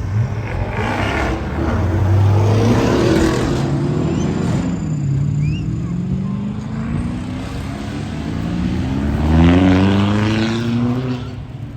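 A car engine accelerating: its pitch dips about halfway through, then climbs steadily for several seconds before dropping off near the end.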